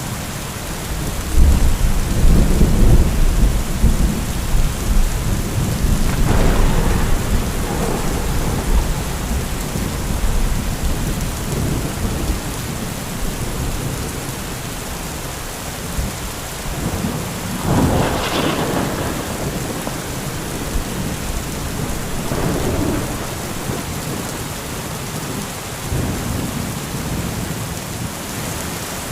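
Steady heavy rain with rolling thunder: a long, deep rumble builds a second or so in and fades over several seconds, followed by several more thunder cracks and rumbles, the sharpest about two-thirds of the way through.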